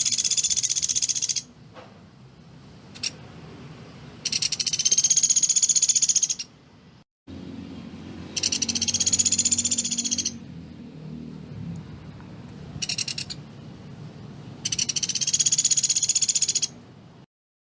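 Pelatuk beras woodpecker giving its rapid, rattling 'tembakan' call: each call is a fast, dense run of high notes about two seconds long, repeated four times, with two brief short rattles between.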